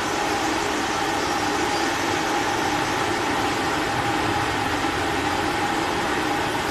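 Steady mechanical hum: an even drone with a faint held tone, unchanging throughout, with no distinct tool clicks or knocks.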